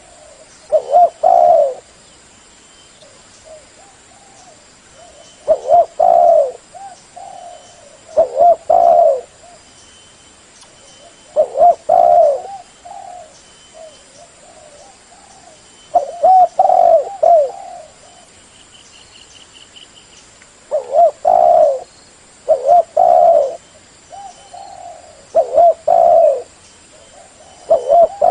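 Spotted dove (terkukur) cooing loudly: a phrase of a few low, rolling coos about every four to five seconds, some seven phrases in all.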